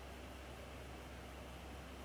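Faint, steady hiss with a low hum underneath: quiet room tone and recording noise, with no distinct sound events.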